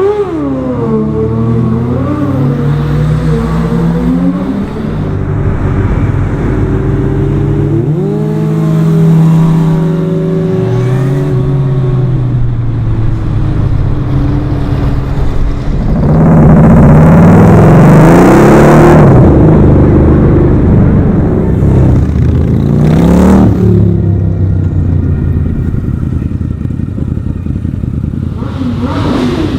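Motorcycle engines revving hard and dropping back toward idle, over and over, in several short clips. The loudest stretch of revving comes a little past halfway.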